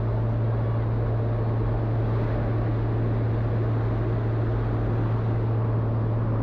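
Jump plane's piston engine droning steadily, a constant deep hum over an even rush of noise.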